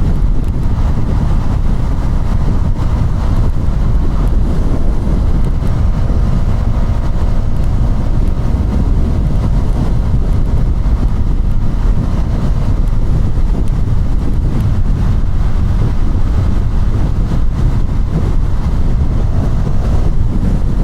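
Heavy wind rumble on an action camera's microphone while a KTM Duke 200 is ridden. The bike's single-cylinder engine is faintly heard under the wind, its note rising a little near the end.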